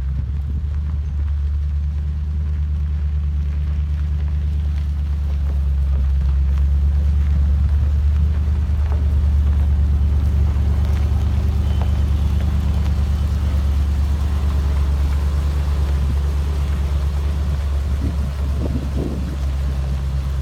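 1972 Chevrolet C/50 grain truck's engine running steadily at a low, even pitch.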